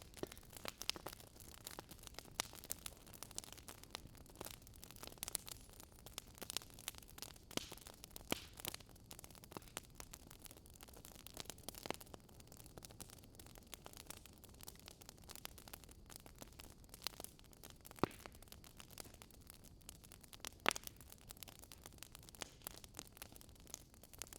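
Wood fire crackling: irregular sharp pops and snaps over a soft, steady hiss, with two louder pops late on.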